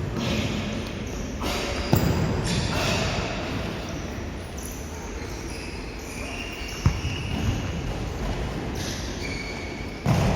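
Futsal being played on an indoor court: a sharp ball kick about two seconds in and another near seven seconds, over the steady bustle of players moving in a large hall.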